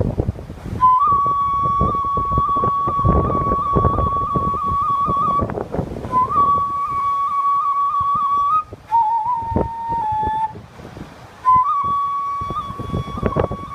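Umebue flute playing festival music (hayashi): long high held notes with quick little flicks and trills, in several phrases with short breaks, one phrase on a slightly lower note. Strong wind buffets the microphone underneath.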